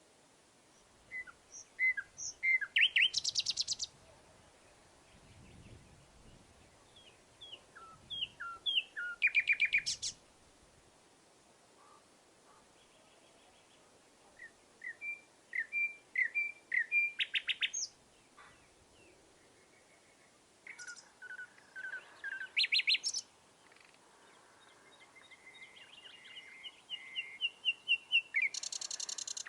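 A songbird singing the same short song over and over, five times about six seconds apart: a few separate notes speeding into a fast, loud trill.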